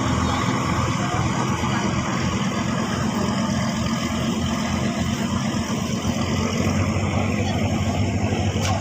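Engine of a Mahakam river taxi cargo boat running at a steady speed, a constant low drone that does not change.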